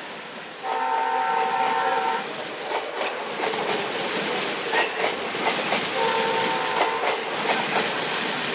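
Indian Railways passenger coaches rushing past on the adjacent track at speed, their wheels clacking over the rail joints. A locomotive's multi-note horn sounds twice: a blast of about a second and a half starting about a second in, and a shorter one about six seconds in.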